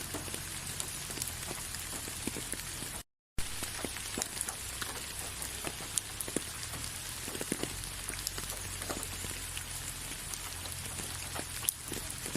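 Steady rain falling, with many separate drops heard striking a surface over a low, even rumble. The sound cuts out completely for a fraction of a second about three seconds in.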